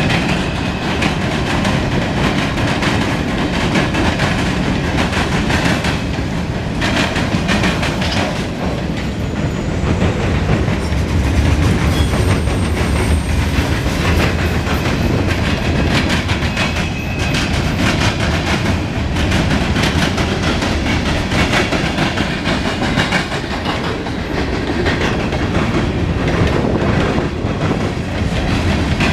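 Mixed freight train rolling past at close range, its wheels clicking over rail joints in a steady, continuous run.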